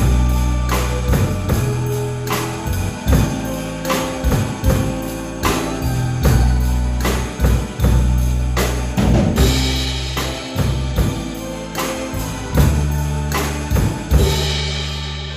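Drum kit played with a steady beat over the backing track of a Korean trot ballad, with a held bass line underneath.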